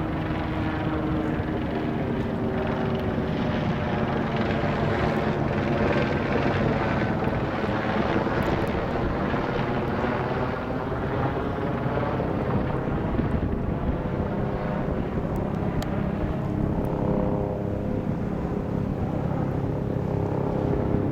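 Tourist helicopter flying overhead, its rotor and engine sound loud and steady, with the pitch bending as it passes about midway.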